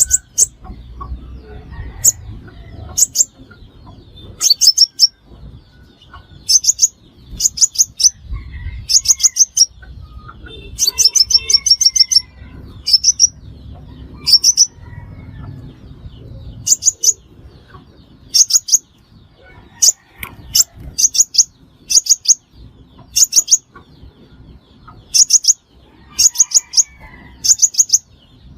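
Sunbird calling: short, very high-pitched chirps in quick groups of two to four, repeated about every second, as used for playback to lure sunbirds into traps.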